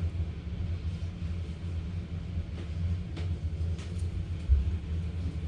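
Black stretchy slime being stretched and squished by hand, giving a few faint sizzly crackles over a steady low rumble, with a soft thump about four and a half seconds in.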